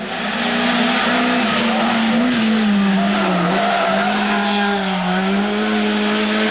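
Rally car engine held at high revs under hard driving, its pitch wavering slightly and dipping twice before rising again. The sound starts and stops abruptly.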